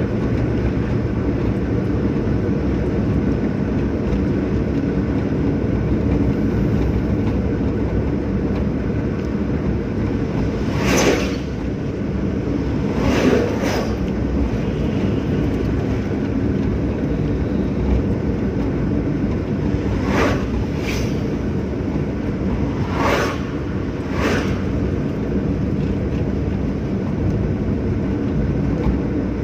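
Steady engine and road noise of a Hyundai Santro being driven, with several brief louder noises through the middle.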